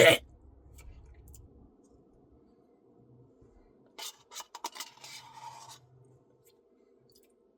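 A spoon scraping and clicking against a cup of Blizzard ice cream in short bursts about four to six seconds in, with quiet between.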